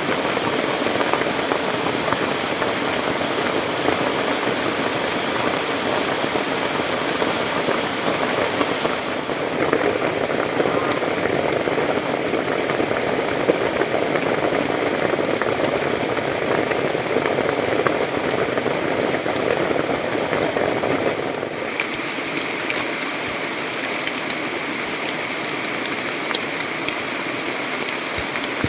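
Loud, steady rushing of water. Its character changes abruptly twice, about a third of the way in and again about three-quarters through.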